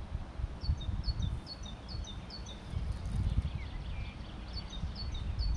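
A songbird singing a repeated phrase of short, high, falling notes, about two a second, in two runs with a pause in the middle, over an uneven low rumble.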